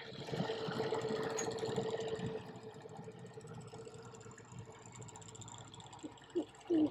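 Small outboard motor with a freshly cleaned carburetor running on its first test. It is loudest for the first two seconds or so, then drops to a quieter steady hum.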